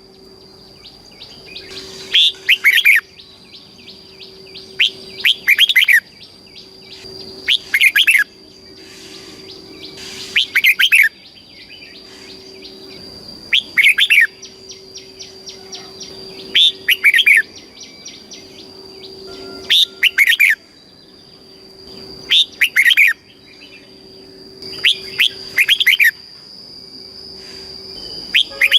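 Red-whiskered bulbul singing: short, loud warbled song phrases repeated about every three seconds, over a faint steady high tone and a low hum.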